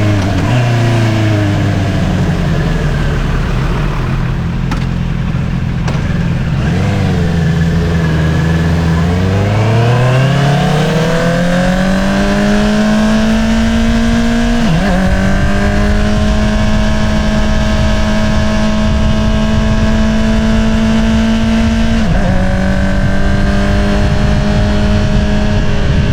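2022 Honda CBR650R's inline-four engine through an Akrapovič single-outlet exhaust under way. It runs at low revs for the first several seconds, then rises steadily in pitch as the bike accelerates. A quick upshift drops the pitch about 15 seconds in and another about 22 seconds in, each followed by a steady cruise.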